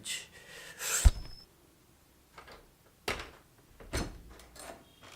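A few household knocks and bumps, like a door or drawer being handled. The loudest is a sharp knock about a second in, and two quieter knocks follow near the end.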